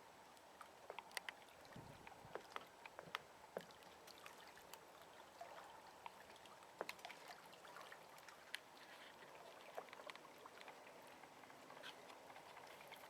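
Faint water lapping and trickling, with many small irregular splashes and ticks.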